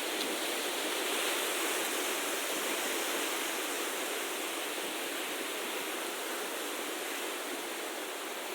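Steady outdoor rushing hiss, even and unbroken, like flowing water or wind, with no distinct events.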